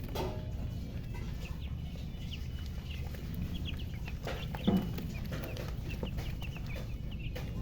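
Chicks peeping in many short, high chirps, with a hen giving one louder, low cluck about halfway through, over a steady low hum.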